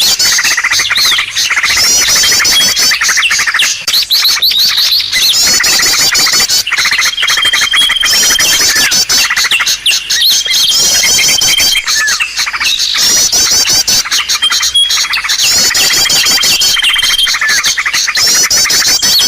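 Bird-lure recording of small songbirds calling: dense, rapid high chirps and twitters, cut through again and again by a held, thin high whistle. The calls come in a repeating pattern throughout, the way a looped lure call plays.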